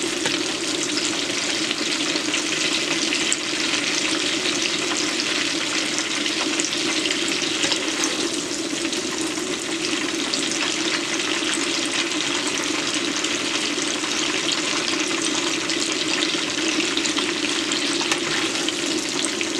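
Shrimp deep-frying in hot oil: a steady sizzle with fine crackling throughout.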